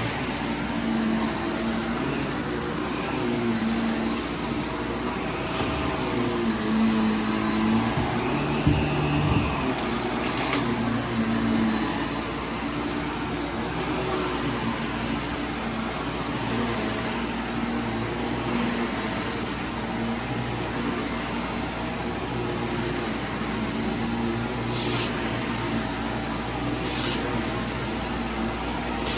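Vacuum cleaner running steadily through a mess test, its motor hum wavering slightly, with a few brief sharp ticks of debris being sucked up.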